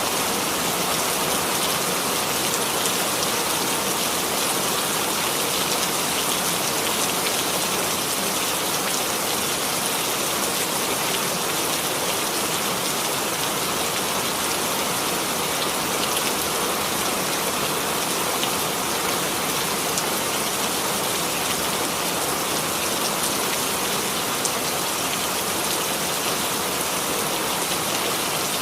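Steady rainfall: an even hiss of rain with fine scattered drops pattering on a surface.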